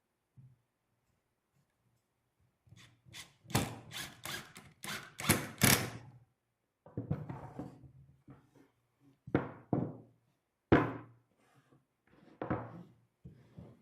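Knocks and thunks on wood, likely cedar bench parts being tapped and handled. A quick run of about eight strikes comes about three seconds in, followed by a few scattered single knocks.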